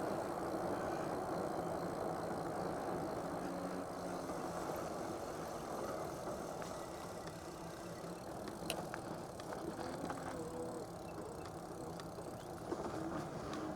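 Steady wind and road noise of an electric bicycle ride, picked up by a clip-on microphone with no windscreen, with a few light clicks or rattles, one about nine seconds in and another near the end.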